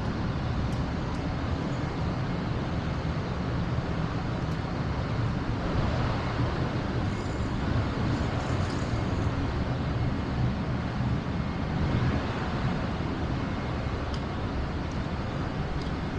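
Steady traffic noise: vehicle engines and tyres running, with no single event standing out.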